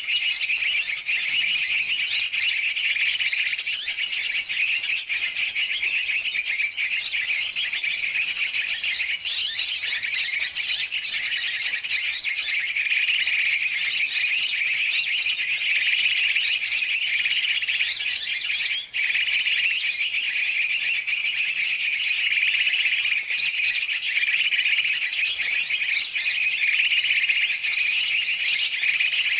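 Dense, unbroken chorus of many small birds chirping and trilling over one another: a looped bird-lure (pikat) recording mixing noisy calls of large and small birds, used to draw birds such as the yellow-vented bulbul (trucukan).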